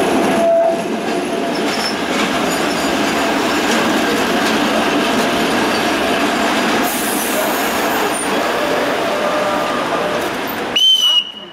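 Vintage Geneva Be 4/4 tram and its trailer running steadily along the rails. Near the end there is a brief high-pitched squeal, then the sound cuts off.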